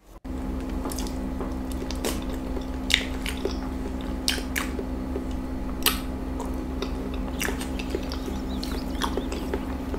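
Close-miked ASMR eating: chewing soft food with scattered wet mouth clicks and smacks over a steady low hum. The sound starts abruptly and cuts off at the end.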